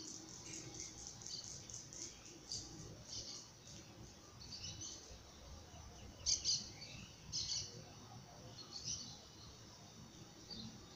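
Small birds chirping: runs of short, high chirps, loudest around six to seven and a half seconds in.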